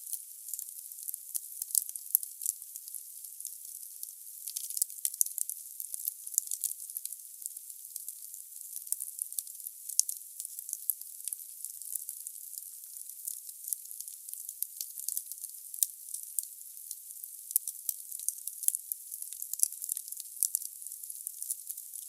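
Firewood burning in a fireplace, crackling with frequent irregular sharp pops over a steady hiss.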